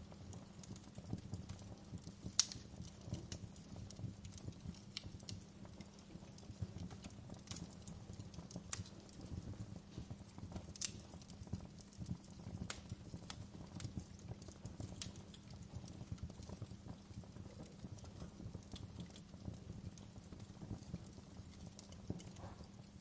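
Fire crackling: irregular sharp pops and snaps over a steady low background, the loudest pop about two and a half seconds in.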